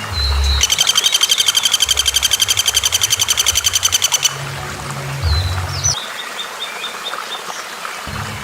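Recorded bird calls: a loud, fast rattling trill lasting about three and a half seconds, then a couple of short whistles and a quick run of about six short notes. A low background hum runs underneath.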